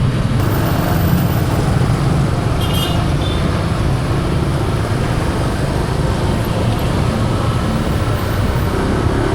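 Motorbike on the move, heard from a handlebar-mounted microphone: a steady low engine and road noise. A brief high-pitched tone sounds about three seconds in.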